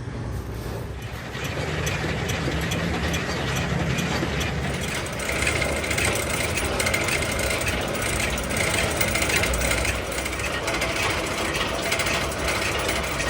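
A workshop machine running steadily, with a high tone that comes in about five seconds in and a scatter of light clicks.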